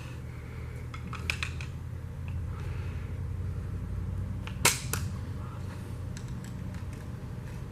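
Sharp metallic clicks and clinks of tools and engine parts being handled during an engine teardown. There is a short cluster about a second in, and the loudest, a sharp knock followed closely by a second one, just before five seconds in, over a steady low hum.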